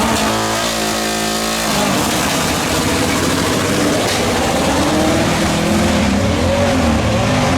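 McLaren 720S GT3X's twin-turbo V8 race engine running hard, holding one steady note for the first couple of seconds, then its pitch shifting up and down.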